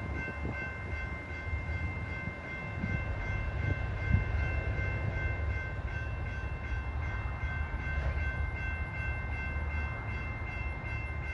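Low, steady rumble of the Amtrak Auto Train at the platform, with a faint steady high whine above it and a single sharp knock about four seconds in.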